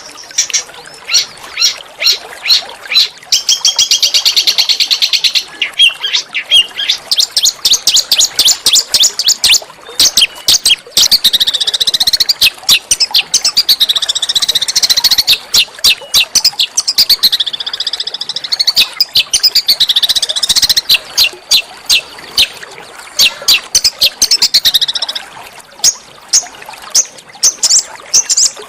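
Small songbirds singing in a fast, harsh stream of high chirps and sharp notes, with a rapid rattling trill a few seconds in and sweeping warbled phrases through the middle. This is recorded masteran song, the rough 'tembakan' calls used to tutor and provoke oriental magpie-robins.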